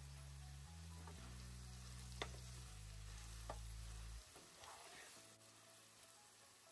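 Diced potatoes and onions frying faintly in oil in a non-stick wok while a wooden spatula stirs them, with three sharp taps of the spatula on the pan.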